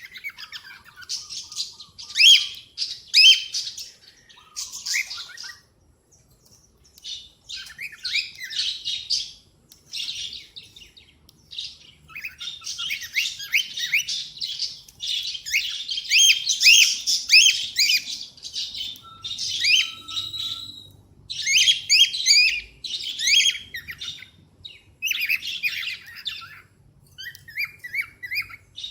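Cockatiels chirping and chattering: bouts of rapid, high chirps with short pauses between them, busiest in the middle.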